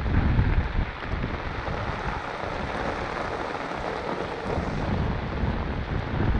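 Steady hiss of rain falling on a wet street, with wind buffeting the microphone in low rumbles, strongest in the first second and again near the end.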